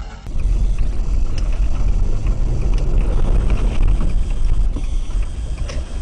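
Steady low rumble of a moving car's road and wind noise, picked up by a dashcam, with a few faint ticks.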